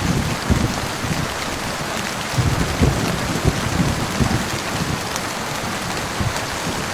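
Heavy rain falling steadily, with a low, uneven rumble of thunder underneath that swells near the start and again through the middle.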